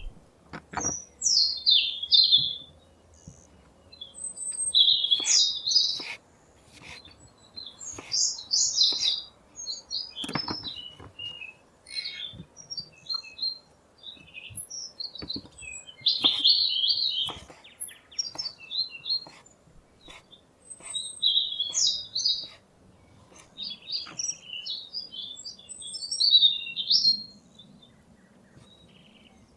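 Songbirds singing outdoors in short, quick chirping phrases that repeat every second or two, with scattered sharp clicks among them.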